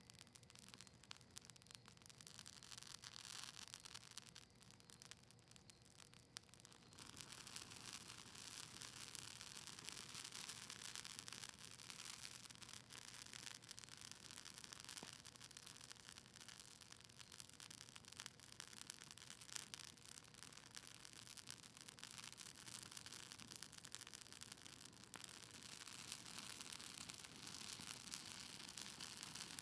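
Faint crackling of a wood fire burning cedar leaves and maple, a dense stream of tiny pops and hiss. It grows busier about seven seconds in.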